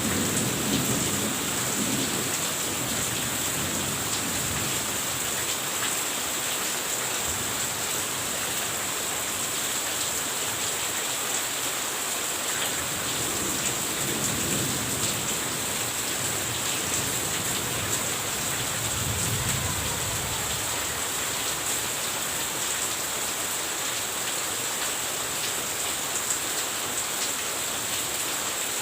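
Steady rain falling, with a few low rumbles of thunder.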